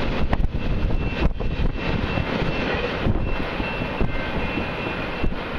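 Double-stack intermodal freight train rolling past and away, a steady rumble of wheels on rail, with a faint thin high tone over it from about a second in to near the end.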